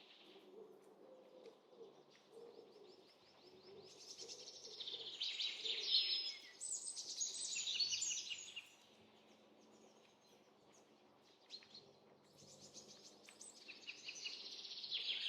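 Small birds chirping and trilling in quick high bursts, busiest in the middle and again near the end, over a faint steady low background hum.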